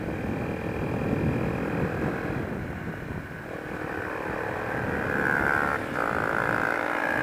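Honda XR125 motorcycle's single-cylinder four-stroke engine running steadily while riding, with road and wind noise; a higher tone rises briefly about five seconds in.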